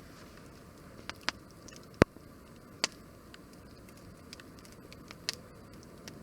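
Wood fire crackling, with sharp pops: a loud one about two seconds in and several smaller ones scattered through, over a faint steady hiss.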